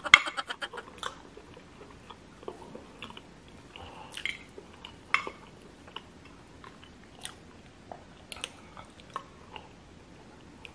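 Close-miked chewing of rice noodles: short wet mouth clicks and smacks at irregular intervals, starting with a quick run of clicks in the first second.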